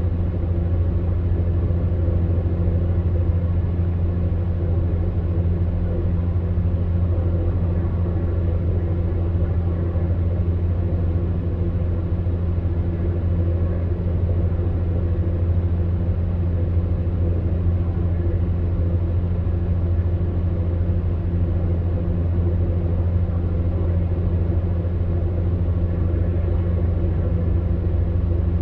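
Electric fan heater running steadily: a low, even hum under the rush of air from its fan.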